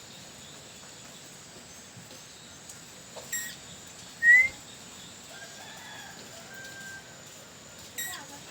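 Calls of a nuri tanau parakeet kept as a decoy bird: a short sharp note about three seconds in, then one loud, brief rising whistle about a second later, faint steady whistled notes after it, and another sharp note near the end.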